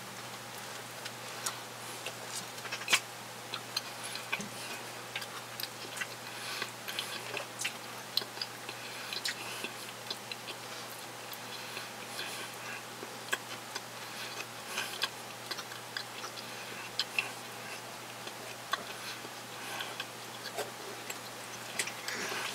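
A person chewing a mouthful of food close to the microphone: many small, irregular clicks and smacks. A faint steady hum runs underneath.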